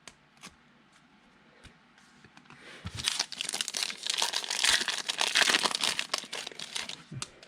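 Foil trading-card pack torn open and its wrapper crinkled, a dense crackling from about two and a half seconds in that tails off near the end, after a few faint clicks.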